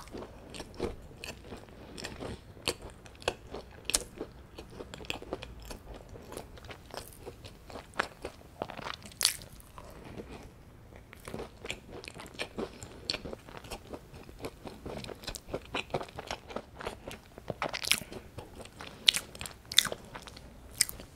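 A scone being bitten and chewed, with many small, irregular crunches throughout.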